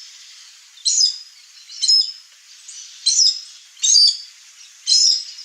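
Chestnut-eared aracari calling: a sharp, high call repeated about once a second, five times.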